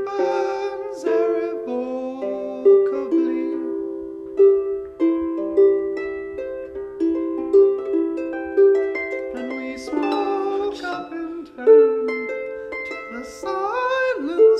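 Live acoustic music: a plucked-string instrument playing a flowing run of single notes and chords. Near the end some wavering, gliding notes join in.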